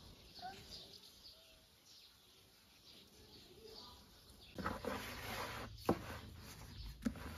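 Faint bird chirps over quiet background. From about halfway through come rustling and handling noises with a couple of sharp clicks.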